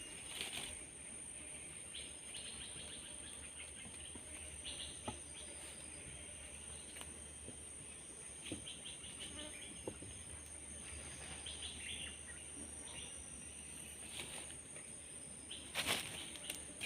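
Forest ambience: a steady high-pitched insect drone with scattered bursts of chirping calls from insects or birds, and a few sharp clicks, the loudest cluster near the end.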